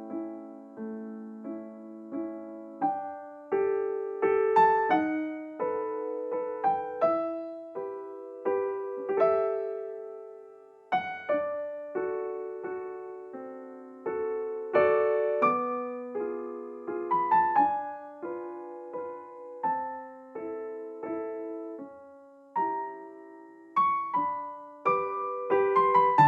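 Slow, gentle solo piano music: single notes and chords struck one after another, each ringing and fading away.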